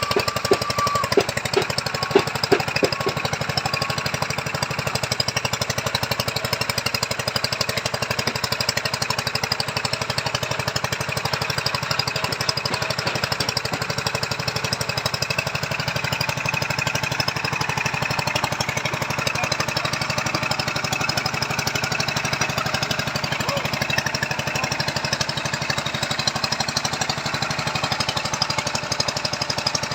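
Engine-driven earth drill boring a foundation hole: its small engine runs steadily under load with a rapid, even chattering pulse. A few sharp knocks come through between about one and three seconds in.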